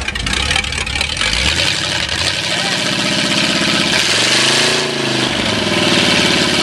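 Rebuilt Ford 8BA flathead V8 running with its mufflers off: a low idle that picks up speed about two seconds in, a quick rev that rises and falls around four to five seconds in, then running steadily at a faster speed.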